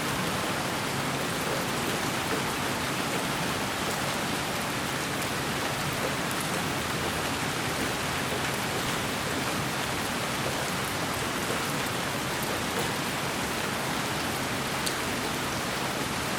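Steady white noise that sounds like rain, with faint scattered ticks, holding an even level throughout.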